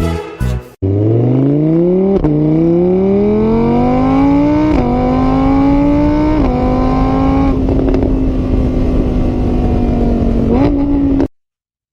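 Car engine accelerating hard through the gears, starting just under a second in. Its pitch climbs, drops back at each of three upshifts, then holds high before cutting off suddenly.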